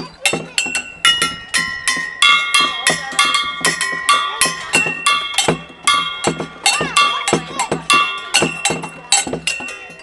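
Tuned metal percussion, a play-area noise maker, struck quickly again and again at about four strokes a second. Its several pitched notes ring on and overlap.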